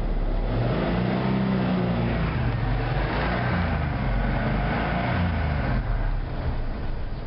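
1988 Ford F-150 pickup's engine revved up and down a few times, heard at the exhaust, easing back near the end.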